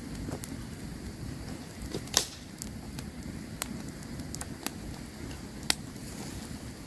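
Campfire burning: a steady low rumble of flames with scattered sharp crackles and pops of burning wood, the loudest pop about two seconds in.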